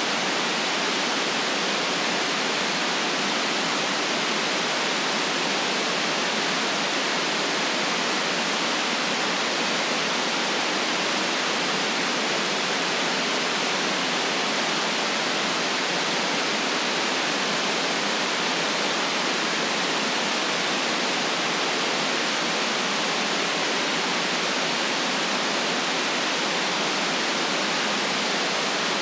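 White noise: an even, unchanging hiss with no low rumble, holding the same level throughout.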